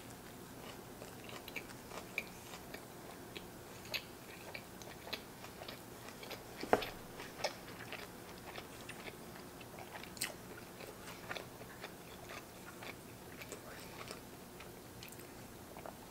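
A person chewing a mouthful of cheeseburger, with soft scattered mouth clicks and smacks. The loudest smack comes about seven seconds in.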